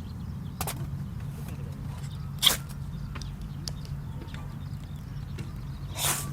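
Wood fire in a small Bushbox stove crackling, with three sharp pops, the loudest about two and a half seconds in, over a steady low hum.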